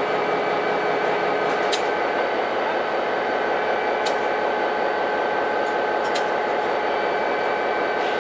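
Diesel-hauled commuter train standing idle at a platform: a steady hum and hiss of running equipment, with a faint click about every two seconds.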